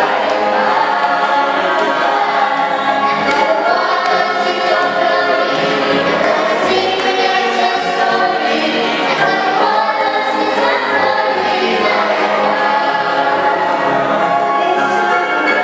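Church choir singing, many voices together holding long notes that change pitch every second or so.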